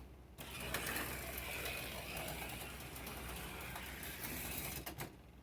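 HO-scale slot car running on the track, its small electric motor and gears whirring steadily, then stopping a little before the end.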